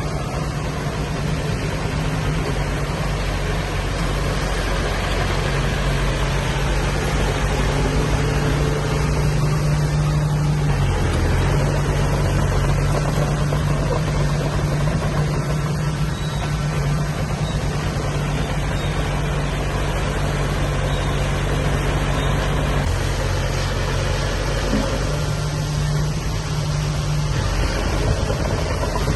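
Diesel engine of earthmoving machinery running steadily, its low note shifting a few times as the load changes.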